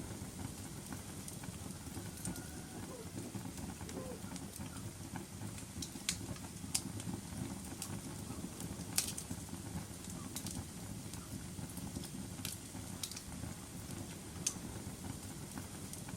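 Wood fire burning in a fireplace: a steady low rumble of flames with irregular sharp crackles and pops every second or so.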